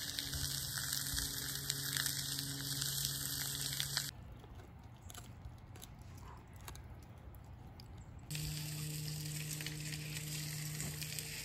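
Food sizzling in a hot pan, a steady dense crackle that drops away to a quieter stretch about four seconds in and comes back loud about eight seconds in.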